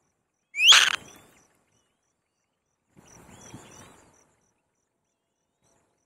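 Bird calls at a black-winged kite's nest during feeding. About half a second in comes one short, loud, rising squeal; around three seconds in there is a quieter scratchy stretch with faint chirps from the nest, over faint steady cricket chirping.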